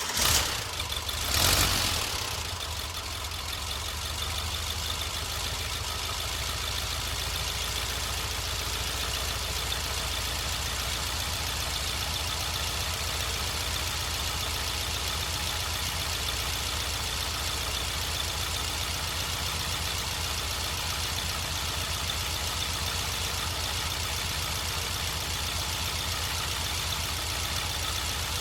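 Freshly built 2.0L air-cooled VW Type 4 flat-four with dual Weber 40 IDF carburettors catching with two brief surges, then settling into a steady, even idle a little under 900 rpm.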